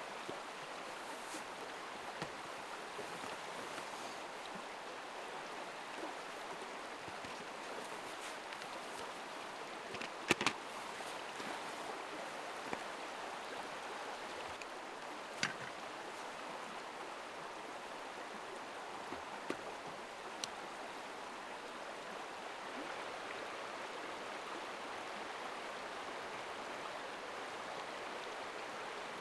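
River water running steadily over stones, with a few short, sharp clicks, the loudest about ten seconds in.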